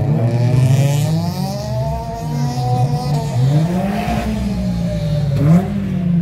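Car engines revving up and down in repeated swells, with a quick, sharp rev about five and a half seconds in.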